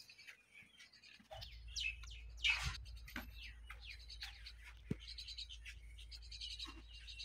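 Small birds chirping, short high notes repeated quickly and densely toward the end, with a soft knock about five seconds in.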